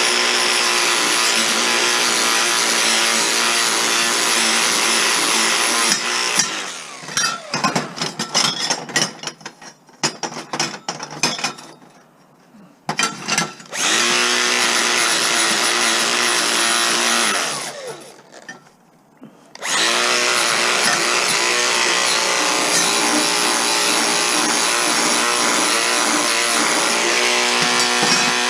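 Handheld electric rotary power tool running steadily as it scours overspray paint off scrap metal. It stops about six seconds in, giving way to a few seconds of clicks and knocks, runs again briefly around the middle, and starts up again for the last third.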